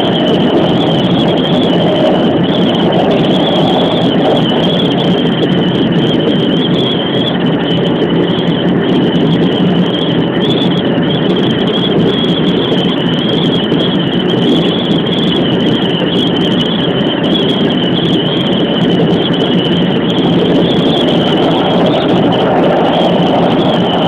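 Keikyu 2100 series electric train running steadily at speed, heard from inside the front car: a continuous rumble of wheels on rail with a constant high-pitched whine over it.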